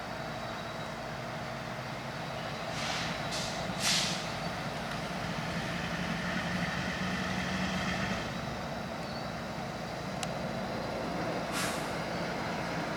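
Diesel freight locomotive running steadily with short air-brake hisses: three a few seconds in, the third the loudest, and one more near the end.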